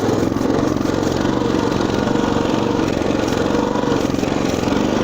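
Small single-cylinder engine of a Motoland RT200 pocket all-terrain vehicle running steadily while the machine is being ridden.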